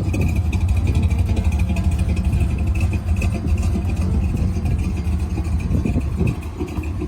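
A 1956 Chevrolet Bel Air's 377 cubic inch V8 engine running steadily, with a deep, pulsing exhaust note.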